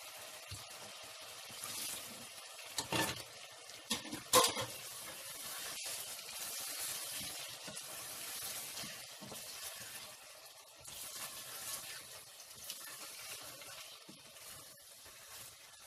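Potato chunks sizzling in a wet onion-tomato masala in a stainless steel pot, stirred with a wooden spoon: the potatoes being stir-fried (bhuna) in the spices. A few sharp knocks around three and four seconds in stand out over the steady hiss.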